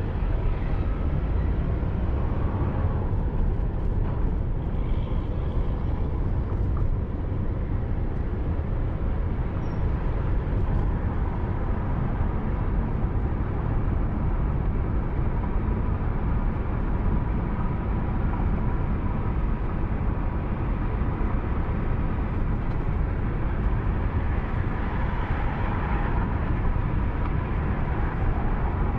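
Steady road and engine rumble of a car driving along, picked up by a dashcam microphone inside the cabin, low and even throughout.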